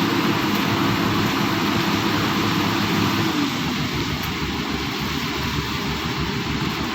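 Excavator's diesel engine running steadily, its note dropping a little over three seconds in.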